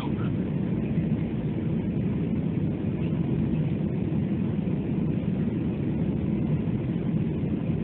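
Steady aircraft cabin noise: an even low rumble of engines and rushing air heard from inside the plane.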